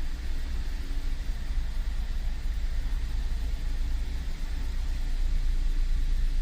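Steady low rumble of road and drivetrain noise inside the cabin of a 2013 Cadillac CTS 3.0 RWD driving at around 40 mph.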